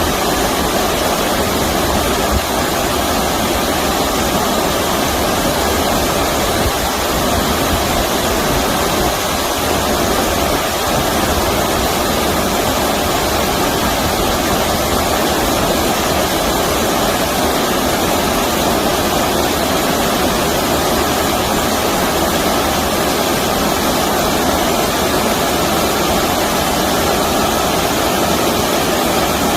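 Stream water rushing steadily, an even, unbroken wash of sound.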